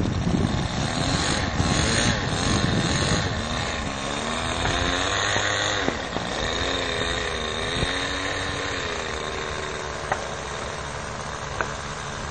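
Small model-airplane engine droning, its pitch wavering slowly up and down over several seconds, over a low rumble.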